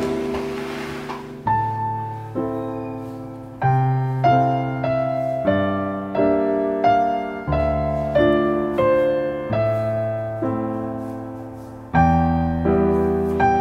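Background piano music: a slow melody over chords, each note struck and left to ring away.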